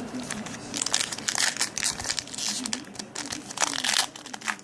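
Crinkling and tearing of a foil trading-card pack wrapper as it is torn open and handled, in several irregular bursts.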